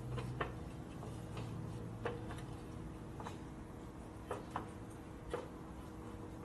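Scattered light clicks and taps of small hardware and hand tools being handled, about six at irregular times, over a low steady shop hum.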